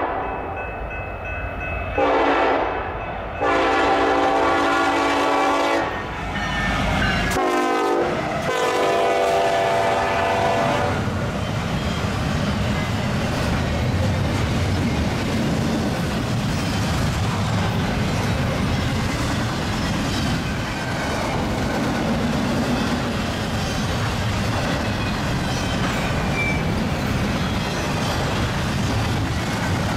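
Union Pacific freight locomotives blowing their air horn in several long blasts at a grade crossing, the chord dropping in pitch as the lead unit passes about eight seconds in. The horn stops about eleven seconds in, leaving the steady rumble and wheel clatter of the double-stack container cars rolling by.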